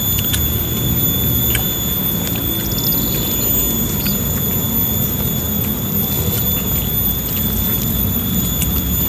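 Close-miked eating sounds of people eating rice and side dishes by hand: chewing and lip smacks with a few sharp mouth clicks over a steady low rumble. A thin, steady high whine runs underneath.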